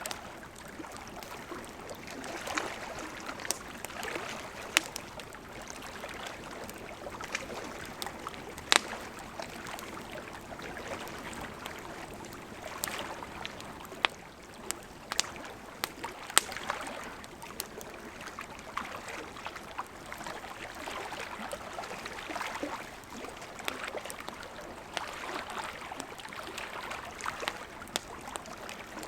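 Wood campfire crackling, with scattered sharp pops, over gentle lake water lapping that rises and falls every few seconds.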